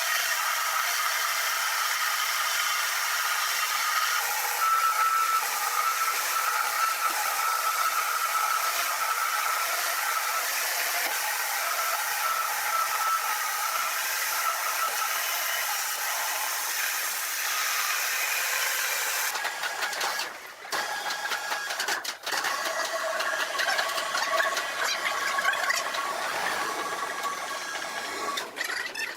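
Sawmill machinery running: a steady high whine with hiss. About two-thirds of the way through it switches abruptly to a choppier, rattling machine sound.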